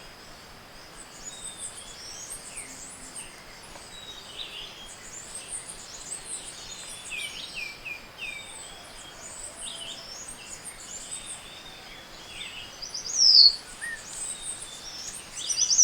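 Chorus of tropical forest birds at dawn: many short chirps, trills and whistles from several species overlapping. Near the end, a loud falling whistle stands out twice.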